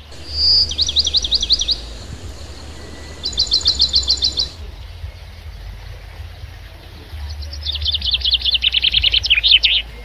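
A songbird singing three quick trilled phrases of rapidly repeated high notes. The last phrase is the longest and drops in pitch near its end.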